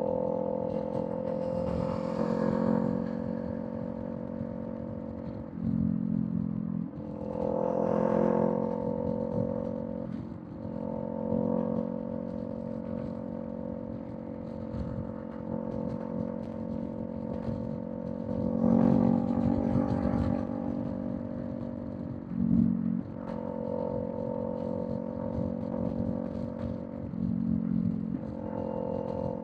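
Kawasaki Z400 parallel-twin engine through a Villain M1 exhaust, running steadily at expressway cruise. Its note shifts in strength several times as the throttle changes, with brief rushes of higher noise over it.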